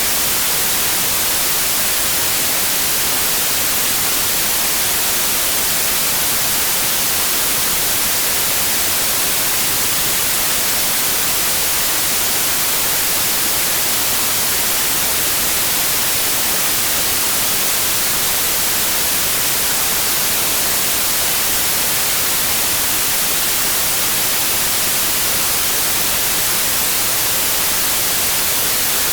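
Steady white noise: an even, unchanging hiss with no tones or breaks, brightest in the high end, used as a sleep aid for colicky babies.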